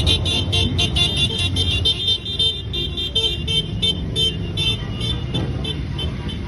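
Motorcycles running in a parade, a low engine rumble, with a rapid repeating high-pitched beeping over it, about five beeps a second at first, then steadier.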